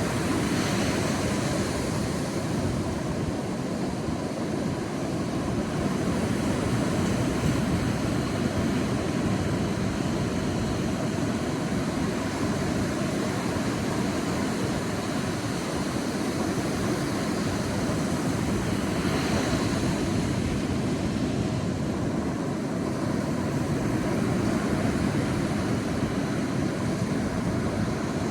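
Sea waves on a beach: a steady surf rumble, with a brighter hiss of a wave washing in near the start and again about two-thirds of the way through.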